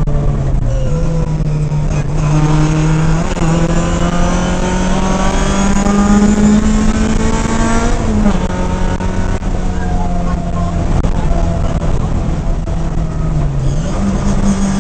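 Ford rally car's engine heard from inside the cabin at speed. Its note climbs slowly under acceleration, drops sharply about eight seconds in, then dips and climbs again near the end.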